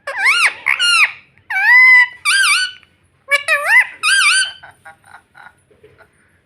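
Indian ringneck parrot vocalising: a run of about seven high, arching squawks over the first four and a half seconds, then a few soft clicking chatters.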